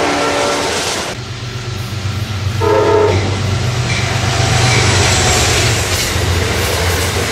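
Train horn sounding and cutting off about half a second in, then one short horn blast about three seconds in, over the steady low rumble and rail noise of a passing train.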